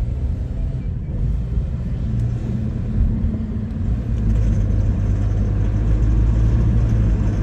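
Hyundai Sonata's four-cylinder GDI engine revving under the gas pedal, getting a little louder about four seconds in but held back from passing about 2,000 rpm. This is the power-limited state the car falls into with its flashing check-engine light and code P1326 (knock sensor performance).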